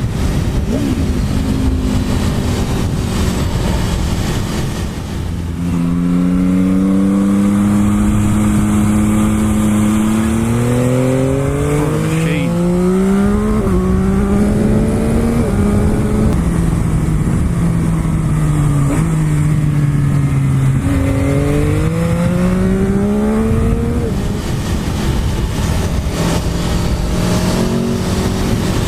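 Sport motorcycle engine accelerating hard with several quick upshifts, then easing off and slowing, then pulling hard again, with wind rushing over the rider's microphone.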